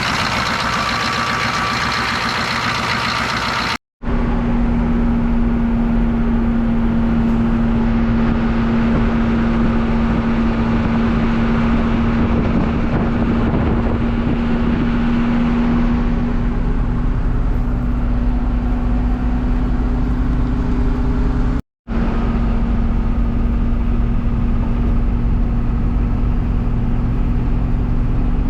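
1982 Chevrolet C30's naturally aspirated 6.2 L V8 diesel running, shortly after a cold start in freezing weather. It gives a steady drone with a constant hum underneath, broken by two brief dropouts, one about 4 seconds in and one about 22 seconds in.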